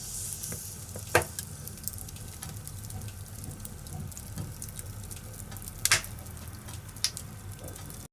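Wood fire in a fireplace crackling steadily, with sharp louder pops from the burning firewood about a second in, near six seconds and again a second later.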